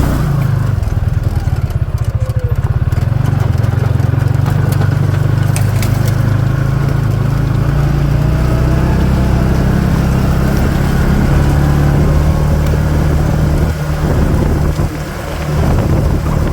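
CFMoto off-road buggy's engine running steadily while driving, with a few clicks and rattles; the engine drops off briefly near the end.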